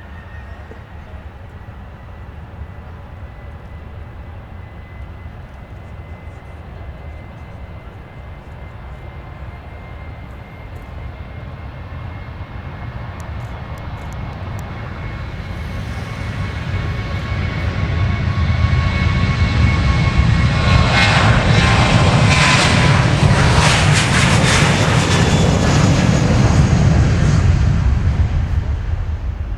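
Boeing 747-400F freighter's four jet engines at takeoff power. A steady high whine and a deep rumble grow steadily louder, with a coarse crackle at the loudest point about two-thirds of the way in, then begin to fade near the end.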